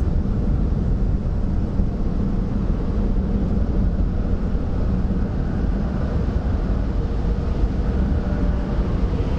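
Tunnel car wash dryers, MacNeil blowers, running steadily and blasting air over the car, heard from inside the car's cabin as a loud, even rush with a low hum.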